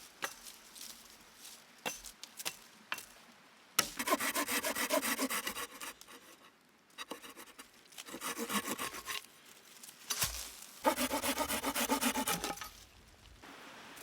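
Hand saw cutting wood in quick back-and-forth strokes, in three bouts with short pauses between, after a few light knocks.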